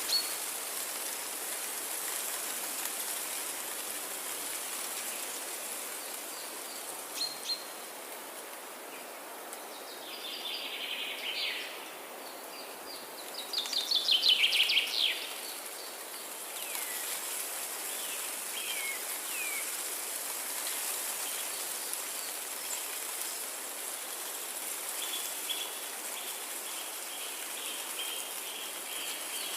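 Forest birdsong over a steady hiss of background noise. A few calls come about a third of the way in, then the loudest sound, a fast trill of rapid notes falling in pitch, about halfway; scattered chirps and a run of quick repeated notes follow near the end.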